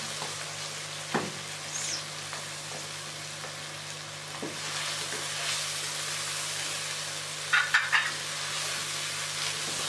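Chicken masala sizzling in hot oil in a nonstick wok while yogurt is stirred in with a wooden spatula. A steady frying hiss, with a few scrapes and taps of the spatula against the pan, the loudest a quick cluster about three-quarters of the way through.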